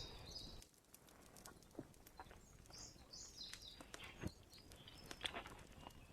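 Faint, scattered small clicks and knocks, with a few short bird chirps, one near the start and another about three seconds in.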